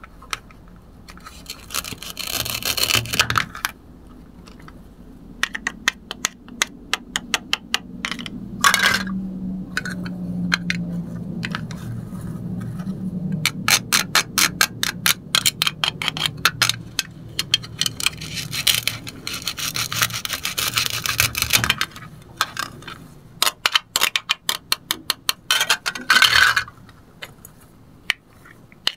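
Plastic toy knife sawing apart velcro-joined play-food pieces on a plastic cutting board: several rasping rips of the velcro, the longest lasting several seconds in the middle, with light clicks and clatter of the hollow plastic pieces.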